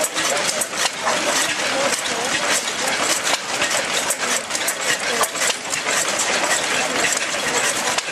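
1925 Austral 5 HP single-cylinder oil engine running, a steady mechanical clatter of rapid, evenly repeated clicks.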